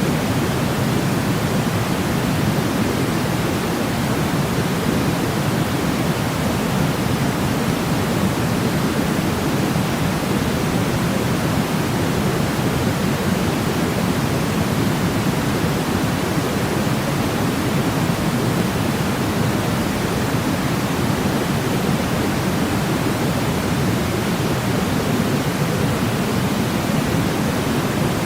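Continuous white-noise sleep sound: an even, unchanging hiss weighted toward the low end, with a deep rushing body and softer highs.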